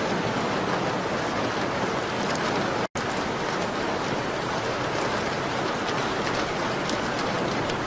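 Steady rain on a window, with faint crackles from a fireplace scattered through it. The sound drops out completely for an instant about three seconds in.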